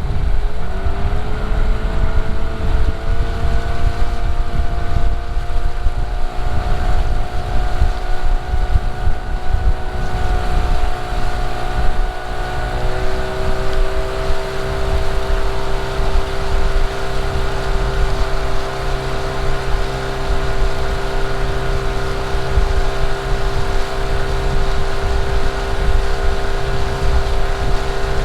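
Small boat's outboard motor running under way. It speeds up in the first second, holds a steady pitch, then settles slightly lower about halfway through. Wind buffets the microphone throughout.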